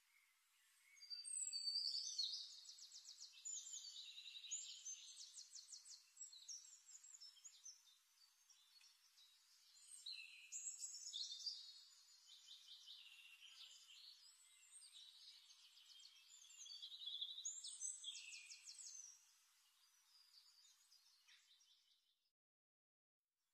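Faint birdsong: high chirps and fast trills in phrases of a few seconds, loudest about two, eleven and eighteen seconds in, stopping shortly before the end.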